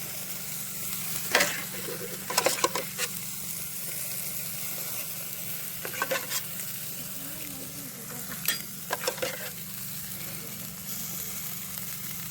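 Campfire crackling with a steady sizzle of butter cooking over the flames, with clusters of sharp pops about a second and a half, two and a half, six and nine seconds in.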